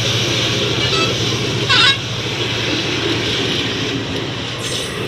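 Train running: a steady noise with a low hum. A brief, louder high-pitched sound cuts in a little under two seconds in.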